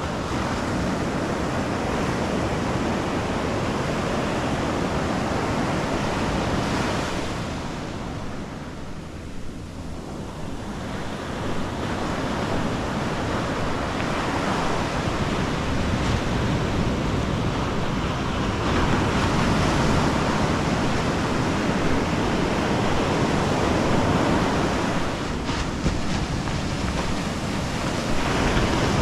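Ocean surf breaking and washing up the beach, a continuous rush that eases for a few seconds and then swells again, with some wind noise on the microphone.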